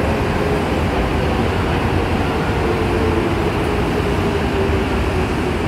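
Steady hum of an electric commuter train standing at an underground platform with its doors open, its air conditioning and onboard machinery running, with a faint steady tone.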